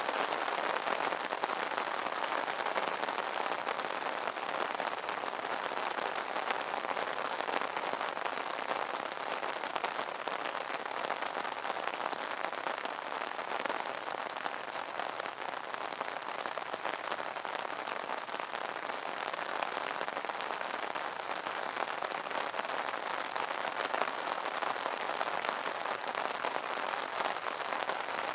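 Steady rain pattering on an umbrella canopy: a dense, even hiss of fine drop impacts that neither builds nor eases.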